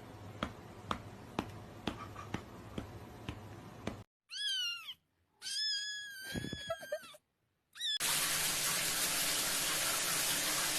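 Steady ticking about twice a second over a low hum, then a cat meowing three times: two longer meows and a short one. After the meows, a steady hiss sets in.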